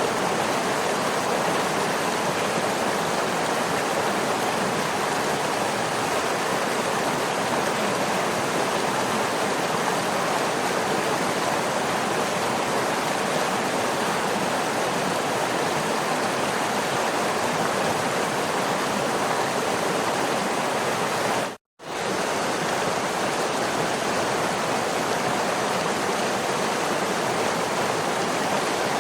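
Steady rushing of a waterfall, even and unbroken, cut by a split-second gap of silence about three-quarters of the way through.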